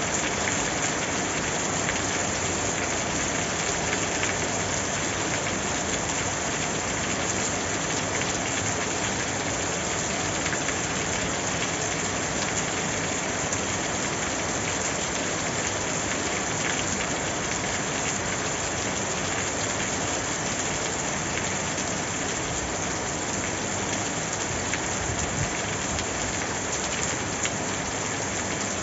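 Steady rain falling and pattering on a surface, an even wash of sound with no breaks.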